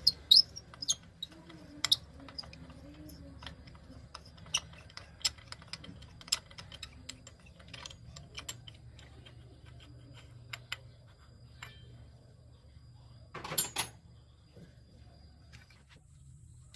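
Irregular metallic clicks and clinks of hand tools being handled, with a brief louder rattle about 13 seconds in, over a low steady hum.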